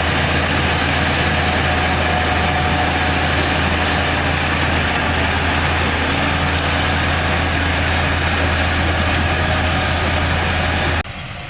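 Heavy construction machine's diesel engine running steadily with a deep hum; the sound drops away abruptly near the end.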